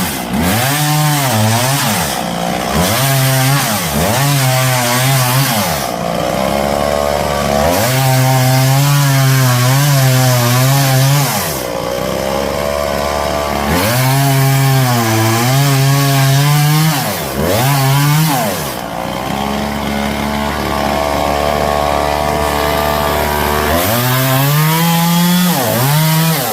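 Gasoline chainsaw cutting through the trunks of bird of paradise trees: the engine's pitch sags under load and climbs again many times over, with a few stretches of steadier running between cuts.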